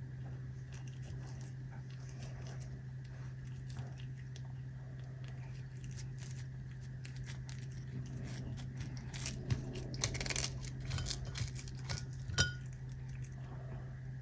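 A cat crunching and chewing dried capelin, small scattered crunches that get busier about two-thirds of the way in, with one sharp clink near the end.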